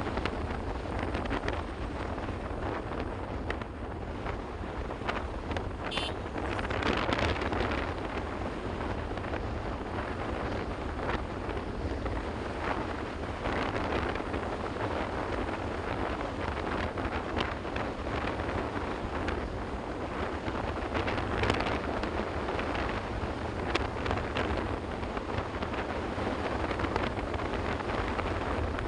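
Wind rushing over the microphone of a moving motorcycle, steady throughout, with the rumble of the bike and road beneath it.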